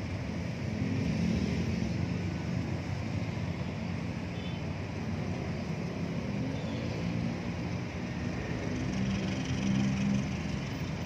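Steady vehicle engine noise with a low, wavering drone, a little louder about a second in and again near the end.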